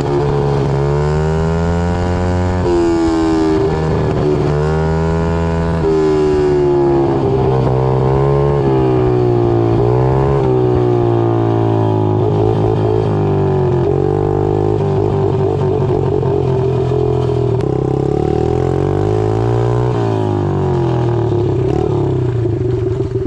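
Yamaha TT-R50 pit bike's small four-stroke single running with no muffler, extremely loud, its pitch rising and falling again and again as the throttle is opened and closed on the move.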